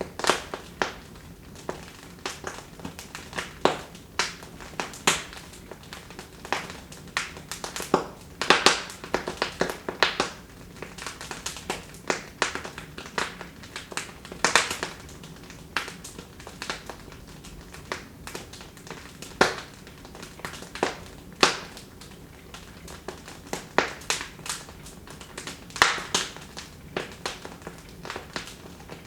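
Wood fire in a fireplace crackling: irregular sharp pops and snaps, some much louder than others, over a low steady hiss.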